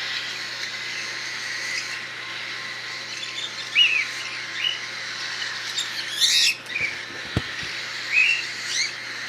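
Young cockatiels chirping and calling in short, scattered calls, with one harsher screech about six seconds in. These are hungry, nearly weaned chicks calling because they expect their hand-feeding formula.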